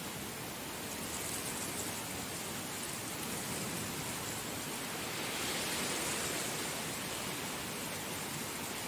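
Heavy rain falling steadily, a dense even hiss that swells a little past the middle.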